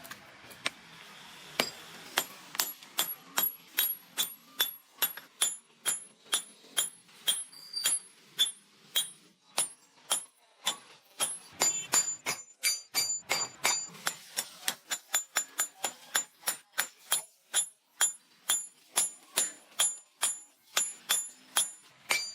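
Hammer blows on metal, in a steady rhythm of about two to three a second, each with a bright metallic ring. The blows begin about two seconds in.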